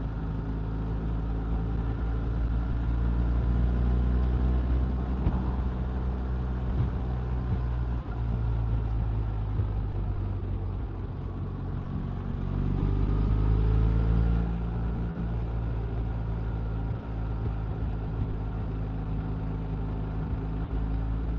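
Motorcycle engine running at road speed with wind and road noise. Its pitch and loudness rise twice as it accelerates, about four seconds in and again about twelve seconds in.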